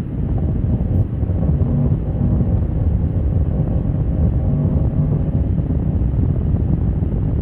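Motorcycle engine running under heavy wind noise on the microphone, a steady low rumble from a bike being ridden at speed.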